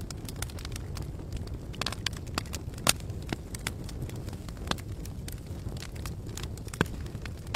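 Campfire crackling: irregular sharp pops and snaps of burning wood, the loudest about three seconds in and near the end, over a steady low rumble.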